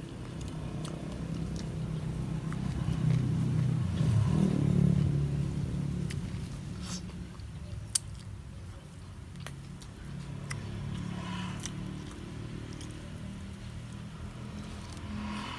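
Close-up chewing and mouth clicks of a man eating rice, fried food and raw greens by hand, with a sharp click about eight seconds in. Under it a motor vehicle's engine hums, swelling to its loudest a few seconds in and then dropping back.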